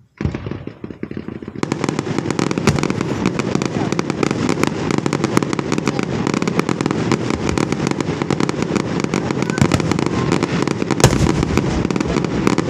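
Fireworks crackling: a dense, rapid rattle of pops that starts suddenly and thickens about a second and a half in, with one louder bang near the end.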